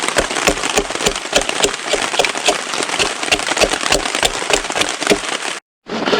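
Heavy rain hitting a stretched tarp, a dense, steady stream of drop impacts. It drops out for a moment near the end and resumes.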